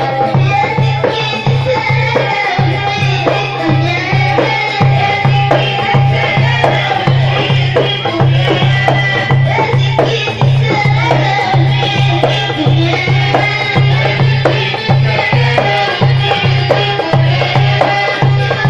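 Port Said simsimiyya folk music: a plucked simsimiyya lyre playing a melody over a steady, fast low drum beat with hand percussion.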